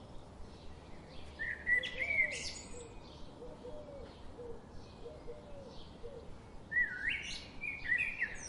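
Wild birds singing: two loud whistled song phrases with quick rising and falling notes, one about a second and a half in and one near the end, over a steady run of fainter high chirps. A softer, lower call repeats several times in between.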